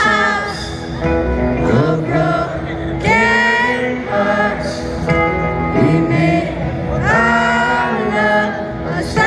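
Live pop concert music: a band playing with singing, many voices together as if the crowd is singing along.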